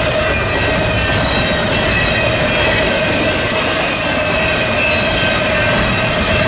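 Freight train rolling past at track side, wheels squealing in a steady held tone over the rumble of the cars.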